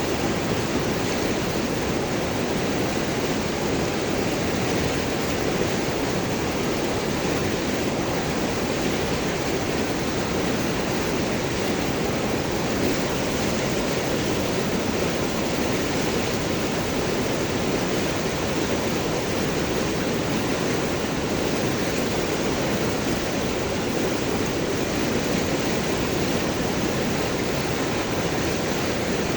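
River water flowing over and around large rocks, a steady gurgling with no breaks.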